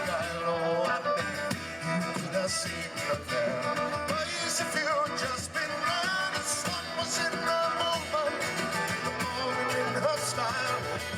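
Folk music with guitar strumming under a melody line, played without words.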